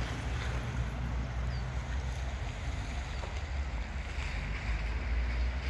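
Wind buffeting the microphone: a steady low rumble under an even outdoor rush.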